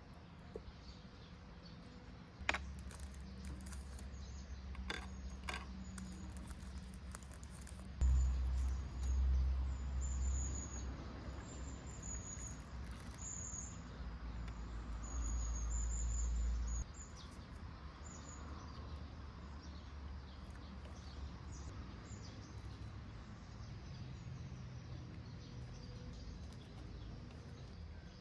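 Outdoor ambience: a bird chirping in a run of short high notes around the middle, over a low rumble that swells and then drops away about two thirds of the way through, with a few faint clicks early on.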